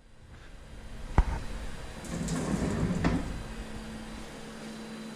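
CNC lathe's sliding guard door: a click, then the door rolling along its track for about a second and stopping with a knock, followed by a steady low machine hum.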